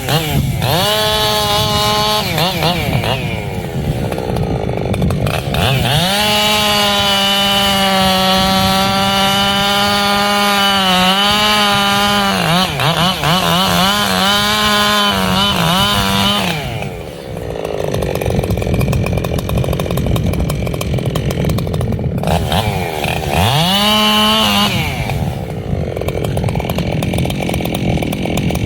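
Echo CS-7310 two-stroke chainsaw revved to full throttle three times: briefly at the start, a long run of about ten seconds, and a short burst near the end. It falls back toward idle in between. During the long run the pitch sags and wavers, as the chain loads up in the cut.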